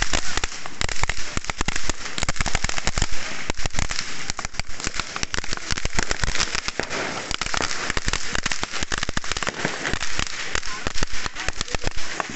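New Year fireworks and firecrackers going off in a dense, continuous barrage of rapid cracks and bangs.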